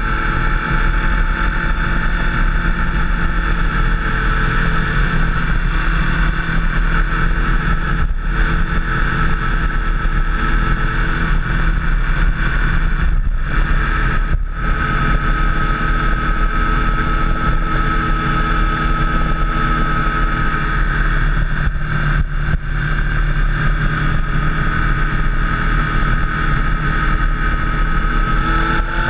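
Motorcycle engine running at a steady cruising speed, with wind noise over it and a few brief dips in level.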